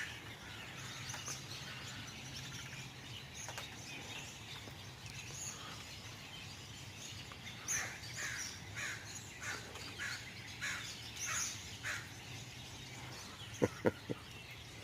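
Faint outdoor birdsong with scattered high chirps. A crow caws about eight times in a steady series from about eight to twelve seconds in, and two short louder sounds follow near the end.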